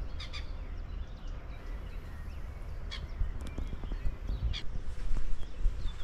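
Outdoor ambience: a steady low rumble with a few short bird calls scattered through it.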